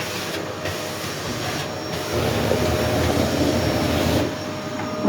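Vacuum cleaner motor running steadily with a faint whine, blowing air as a makeshift hair dryer. It grows louder from about two seconds in until about four seconds in, then settles back.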